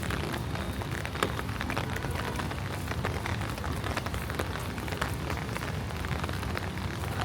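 Heavy rain falling steadily, with many sharp drop hits close by and one louder tap about a second in.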